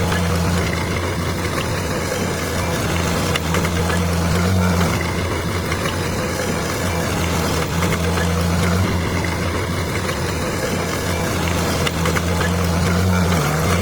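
Bulldozer's diesel engine running steadily with a low hum, its note swelling briefly about four seconds in, again near nine seconds and near the end, over a constant mechanical clatter.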